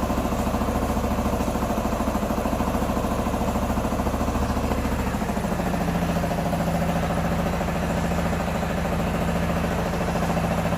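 Q2 125 motorcycle's small single engine idling steadily after repair, with a slight change in its note about halfway through.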